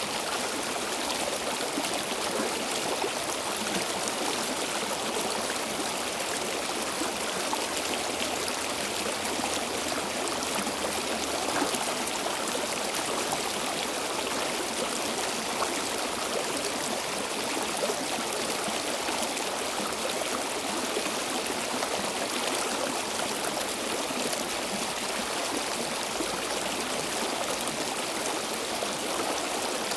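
Stream water flowing steadily over rocks, a continuous babbling rush with no breaks.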